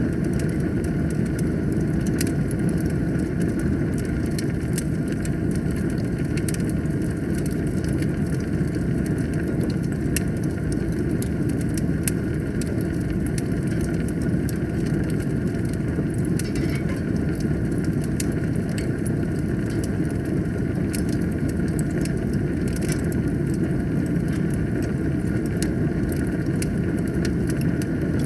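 Wood fire burning in a fireplace: a steady low rush of flames with scattered sharp crackles and pops throughout.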